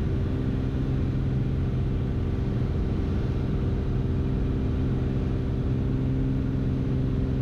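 Beechcraft Bonanza's six-cylinder piston engine and propeller droning steadily in the cabin during cruise in the landing pattern, a constant hum made of several low, level tones.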